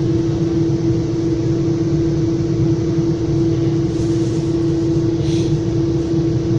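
Inside a Metra commuter train car in motion: a steady hum and low rumble with one constant tone running through it. Two brief hisses come about four and five seconds in.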